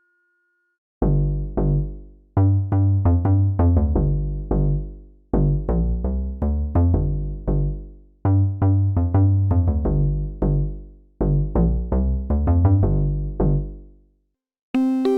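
Sequential Fourm analog synthesizer playing a bass preset: a repeated phrase of short, plucked, quickly decaying low notes, played four times after about a second of silence. Near the end a brighter, ringing kalimba-like preset begins.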